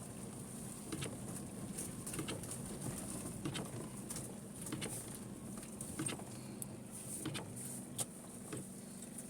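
Rain falling, with irregular drops tapping and pattering over a low steady hum.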